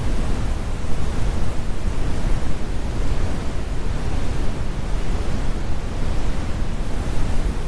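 Synthetic brown noise: a steady, deep rumbling hiss with most of its weight in the low end and the highs rolled off.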